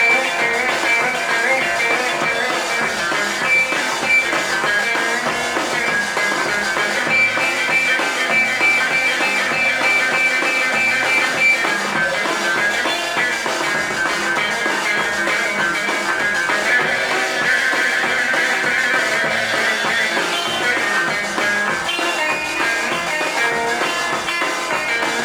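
Mid-1960s rock band playing an instrumental break, with electric guitar over bass and drums.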